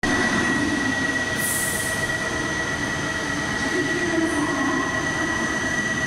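E7 series Shinkansen trainset standing at the platform before departure, its onboard equipment running with a steady high whine over a constant low rumble. A short hiss of air comes about one and a half seconds in.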